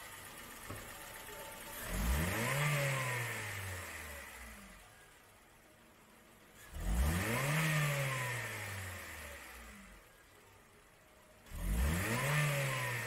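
2007 Honda Partner's four-cylinder engine revved three times from idle, about five seconds apart. Each rev rises sharply in pitch and falls back to idle over about two seconds.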